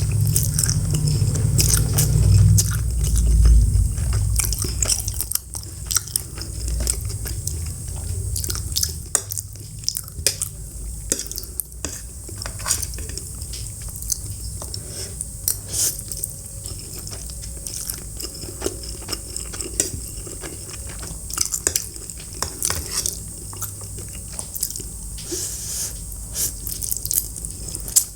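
Close-miked eating: a person biting into and chewing crunchy food, with many quick, sharp crunches and crackles.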